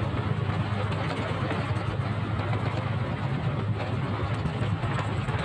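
Motorcycle engine running at a steady pitch during a ride, over a constant hiss.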